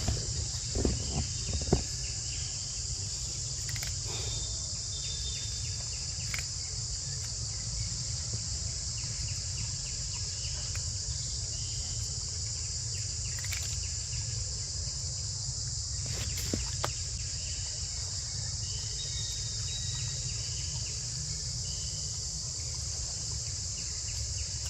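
Steady, unbroken high-pitched insect chorus, crickets or cicadas, over a low rumble, with a few short knocks about a second in and again around sixteen seconds.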